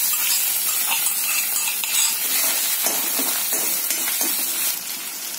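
Pounded green chilli and garlic paste sizzling as it goes into hot tempering oil in a kadhai, with a steel spoon scraping it out of a steel bowl and clinking against the pan as it is stirred. The sizzle eases a little near the end.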